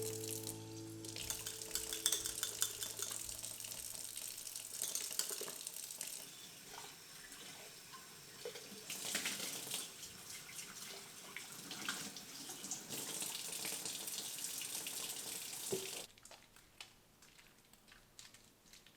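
Water running from a tap into a sink, a steady hiss that changes as things pass under the stream; it is turned off and stops sharply about three-quarters of the way through.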